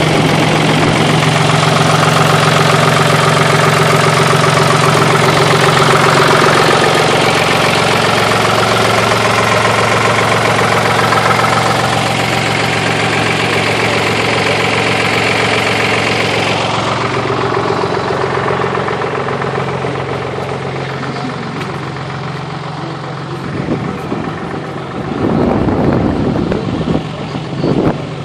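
A farm tractor's engine runs steadily close by, gradually growing quieter over the second half. A few louder knocks and clatters come near the end.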